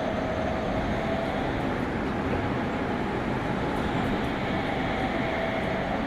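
Meitetsu 100 series subway train running, heard from inside the car: a steady rumble of wheels on rail with a thin, steady whine from its Mitsubishi GTO inverter traction motors.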